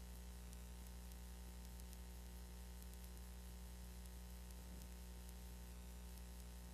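Low steady hum with even hiss and no programme sound: the background noise of a VHS tape transfer.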